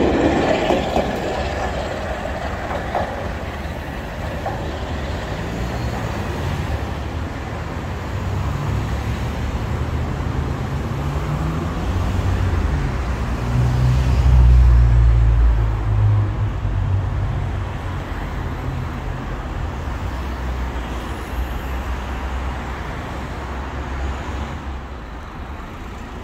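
Train carriages hauled by a Class 47 diesel locomotive rumbling past close by at the start. The sound then settles into a steady low rumble that swells to its loudest a little past the middle and then eases off.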